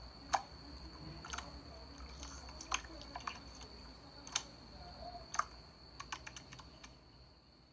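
Scattered light clicks or taps at irregular intervals, about a dozen in all and sometimes in quick pairs, over a faint steady high-pitched whine; the sound fades down near the end.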